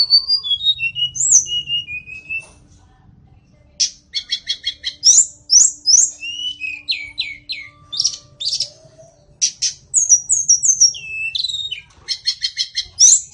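White-rumped shama singing: a varied run of clear whistled glides, rapid repeated notes and quick sweeping phrases, with a pause of about a second and a half early on before the song resumes.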